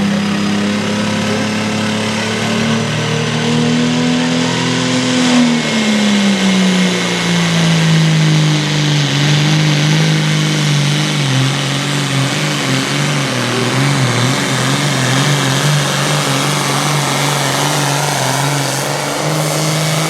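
Classic super stock pulling tractor's diesel engine running hard while pulling the sled. Its pitch holds at first, drops about five seconds in as the load builds, and then wavers unevenly.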